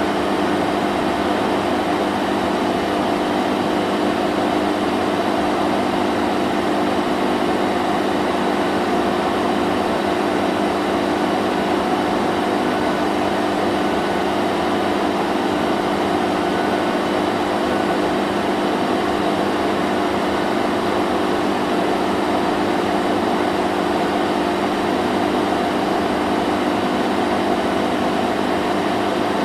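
Vacuum cleaner running steadily, a constant motor hum with a rushing of air that does not change.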